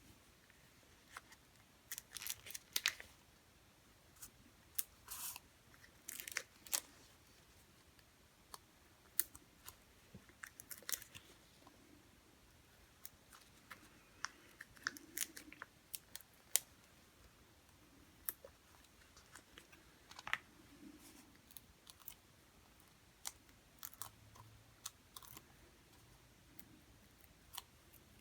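Foam adhesive dimensionals being peeled off their backing sheet and pressed onto the back of a cardstock panel: scattered faint clicks, ticks and short crinkles of paper at irregular moments.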